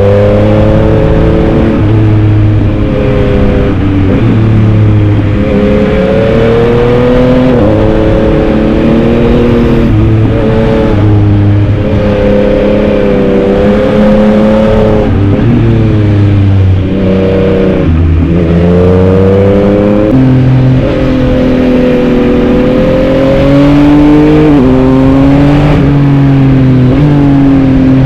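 Yamaha MT-09 (2022) inline three-cylinder motorcycle engine under way, revs rising and falling repeatedly through gear changes, with a deep drop in revs about 18 seconds in.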